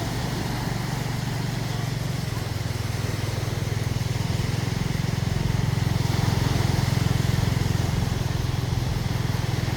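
A motor vehicle engine running steadily, growing a little louder around six seconds in.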